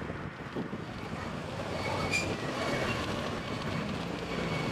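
Road noise from riding a motorcycle through city traffic: a steady rumble of engine, tyres and wind, with a brief high-pitched squeal about two seconds in.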